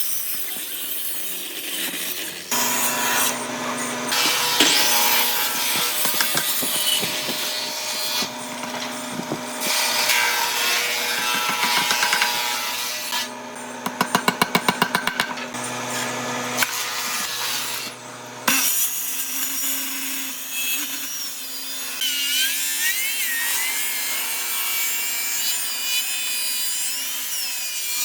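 Woodworking tools cutting and working solid wood: sawing and rubbing on timber, in several short stretches that change abruptly. Midway comes a quick, even run of strokes, about ten a second.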